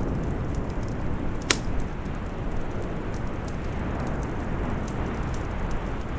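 Wood fire crackling in a fireplace, with scattered small crackles and one sharp pop about a second and a half in, over a steady rush of storm wind.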